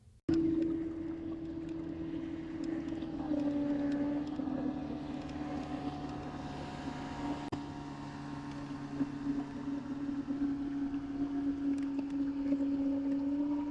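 Kayak's electric trolling motor running with a steady hum that cuts in suddenly and drops slightly in pitch about three seconds in.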